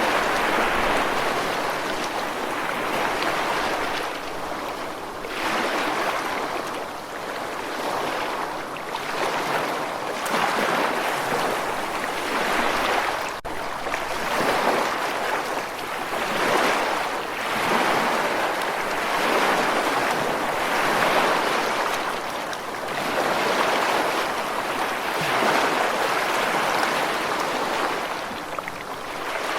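Ocean surf washing in and out. A rushing hiss of water swells and falls back every couple of seconds.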